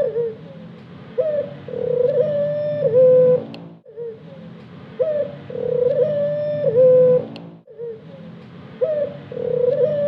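Ornamental Barbary dove (puter hias) cooing. It repeats the same phrase about every four seconds, three times: a short note, then a long rolling coo that drops in pitch at the end.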